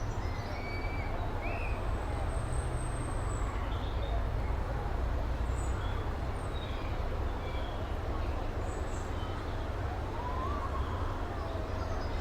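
Steam train running with a steady low rumble and hiss, no clear chuff rhythm, with a few short high chirps above it and a brief gliding tone near the end.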